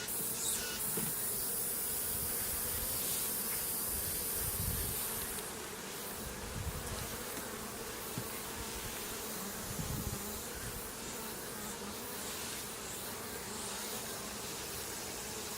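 Many honeybees buzzing together in a steady hum, with a few low dull bumps around the middle.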